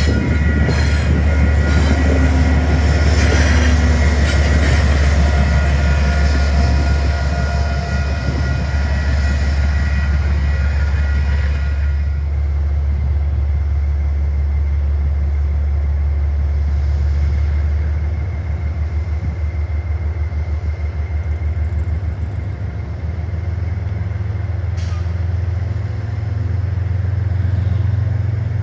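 A Metro-North diesel train rolls past at close range, its rumble and wheel noise carrying steady high-pitched tones. About twelve seconds in these cut off abruptly, leaving a deep, steady hum from a GE Genesis P32AC-DM diesel-electric locomotive standing at the platform.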